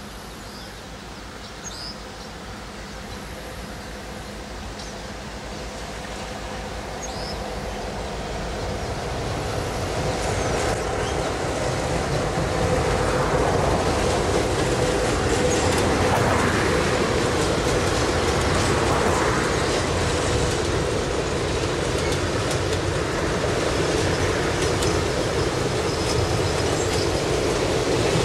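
Passenger train crossing a steel truss bridge: the rumble and clatter of its wheels grow louder over the first dozen seconds as it nears, then hold steady as the cars roll past.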